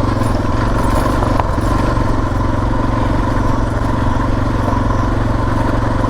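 Suzuki DR650's single-cylinder four-stroke engine running at a steady speed under way on a dirt road.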